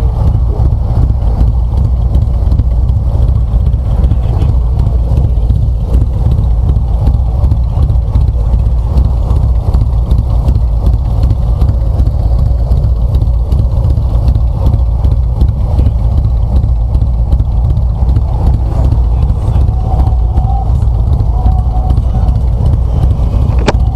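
Harley-Davidson V-twin motorcycle engine running steadily, its sound weighted heavily to the low end.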